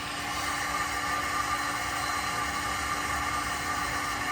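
Mains water rushing through a just-opened supply valve and pipe into a drained gas water-heater tank as it refills: a steady hiss with a faint constant tone in it.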